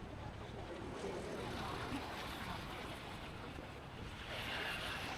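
Wind rushing over the microphone with steady road and traffic noise from a moving motorbike.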